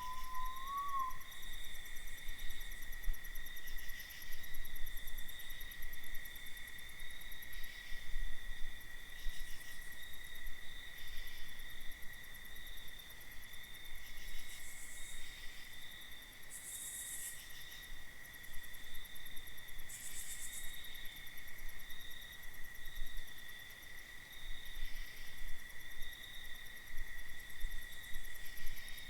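A night chorus of crickets and other insects: a steady, high, continuous trilling. Right at the start there is a short wavering whistled note, and a few brief soft hisses come later.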